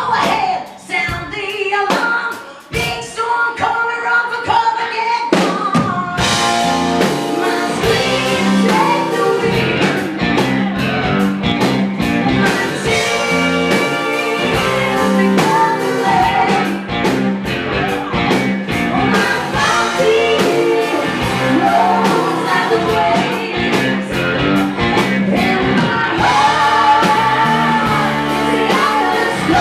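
Live rock band with drum kit and guitar playing, and a woman singing over it; the band is sparse for the first couple of seconds, then fills out.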